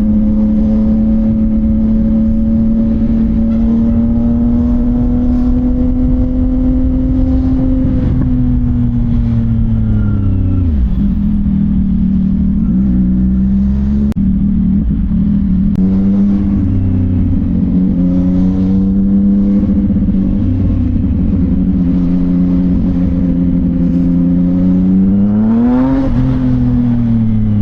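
CFMOTO 675NK's inline-triple engine through a titanium full-system exhaust, running at low road speed with a steady note. The revs climb gently and fall away as the throttle closes about a third of the way in, then vary with light throttle. Near the end there is a quick rise in revs that eases off again.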